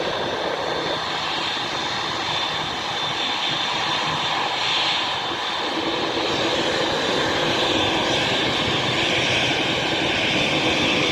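Boeing 787-8 Dreamliner's jet engines running at taxi power: a steady rushing noise with a high whine, growing slowly louder as the airliner rolls closer.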